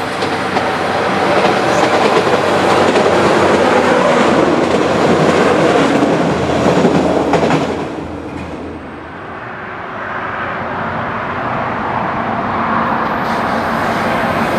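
A passenger train passing close by on the rails, with a loud running rumble and wheel clatter that peak and then die away about eight seconds in. A quieter train rumble follows.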